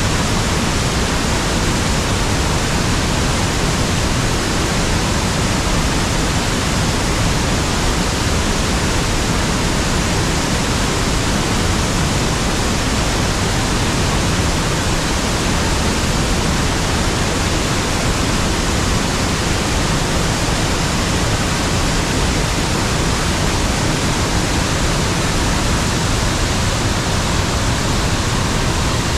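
A river waterfall: falling water rushing steadily, an even, unbroken wash of noise at a constant level.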